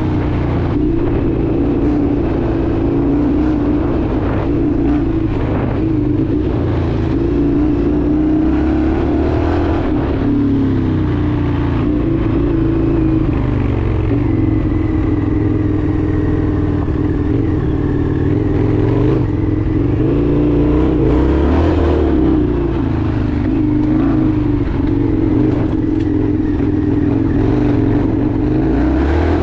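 Indian FTR 1200 V-twin engine running on the move, its pitch shifting up and down with the throttle and gear changes.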